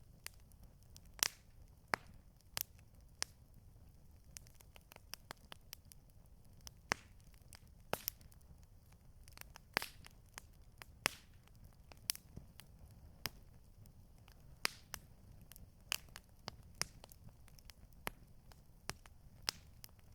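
Wood campfire crackling, with irregular sharp pops and snaps several times a second, some louder than others, over a faint low rumble.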